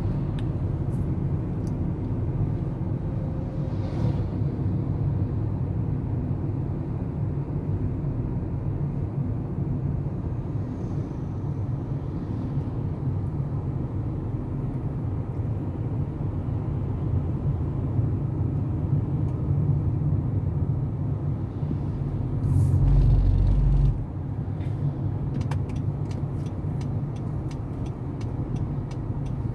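Baler running with a steady low machine rumble, a louder low surge about 23 seconds in, and a fast run of regular light ticks near the end.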